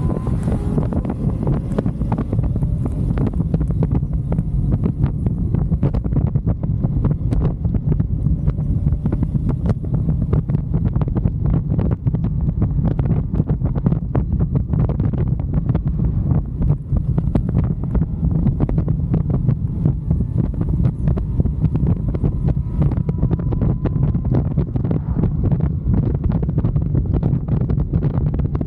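Wind buffeting the microphone of a moving motorcycle, a loud, steady, low rumble. Under it the bike's engine is faint, its note slowly rising in pitch partway through.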